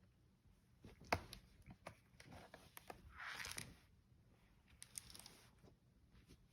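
Faint handling noises from taking apart a laptop: scattered light clicks, with a brief scrape about three seconds in.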